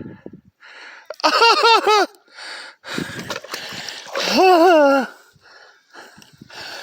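A man's wordless excited vocal sounds and heavy breaths: a quick run of about four short voiced syllables about a second in, then breathing, and one long drawn-out voiced call near the end.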